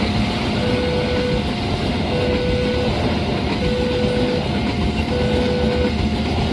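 Railway level-crossing warning alarm sounding a repeating two-tone signal, a low tone then a higher one, about once every second and a half. Under it runs the steady rumble of a passing train.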